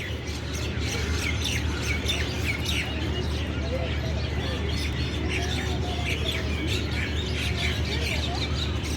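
Many small birds chirping and twittering in rapid, overlapping short notes, over a steady low hum.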